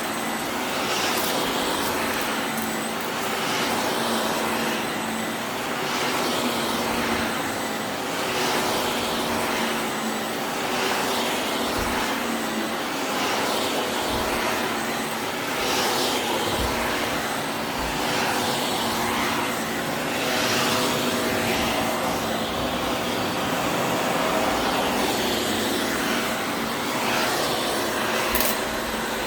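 Vacuum cleaner running steadily, a loud rushing motor noise that swells and eases every couple of seconds.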